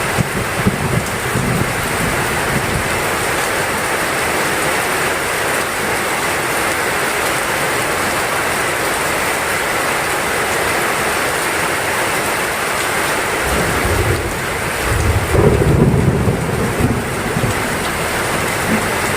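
Heavy rain falling steadily. A low rumble of thunder swells about fourteen seconds in and is loudest a couple of seconds later.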